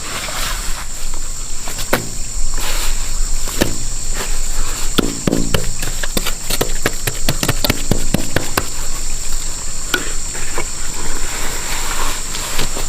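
Insects droning steadily in a high, even pitch, with a run of short knocks and scrapes that come thickest in the middle.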